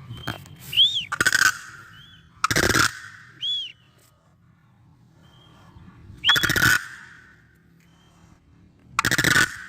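Cranes calling: loud, harsh, rolling calls about four times, each with a short, high, rising-and-falling note near it.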